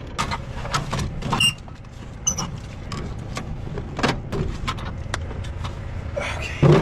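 Irregular metallic clicks and knocks of parts and tools being handled on an old car, about a dozen sharp hits, two of them ringing briefly like struck metal.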